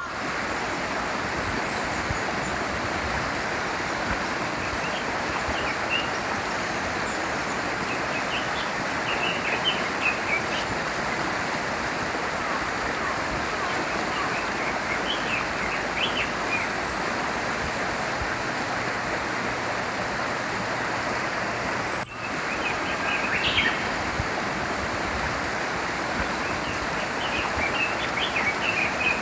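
Small stream flowing steadily, with small birds giving short high chirps now and then, in clusters around a third of the way in and near the end. The water sound drops out for an instant about three-quarters of the way through.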